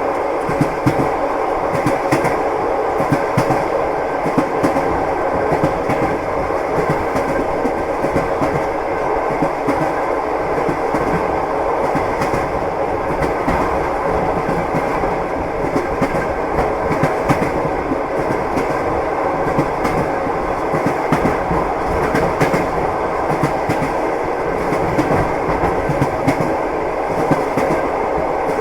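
Train wheels clattering on the rails as a train runs steadily: a continuous rumble with frequent clicks and knocks from the wheels over the track.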